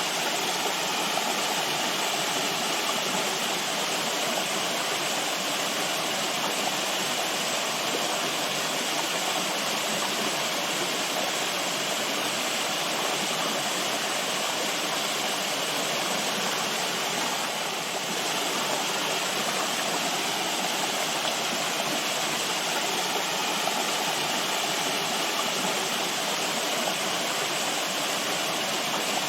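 Flowing water: a steady, even rush of a stream or small waterfall.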